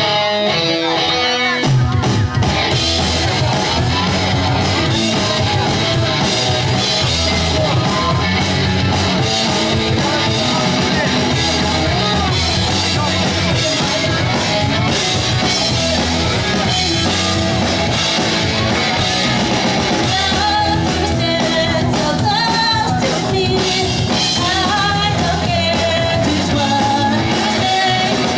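Pop-punk band playing live at full volume, drum kit and guitars kicking in together about two seconds in, with a singer over the band.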